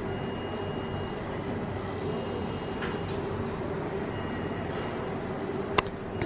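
Steady machinery noise from a construction site, with a low hum and a faint high tone that comes and goes roughly every two seconds. Two sharp clicks sound near the end.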